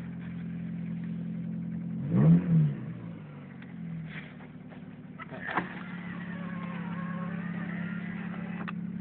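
1990 Honda Accord's 2.2-litre four-cylinder engine idling after a cold start, heard from inside the cabin, with a brief rev that rises and falls about two seconds in. A sharp click about five and a half seconds in.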